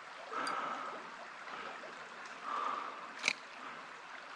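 Small creek water flowing and trickling steadily, with a sharp click about three seconds in.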